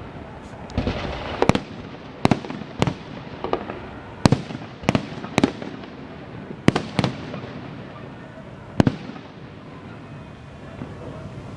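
Festive fireworks salute: shells bursting overhead in a series of sharp bangs, about one every half second to a second, with fewer bangs after about nine seconds.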